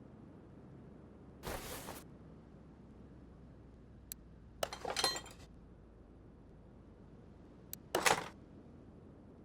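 Metal engine parts and tools clinking and rattling as they are handled, in three short bursts spaced a few seconds apart.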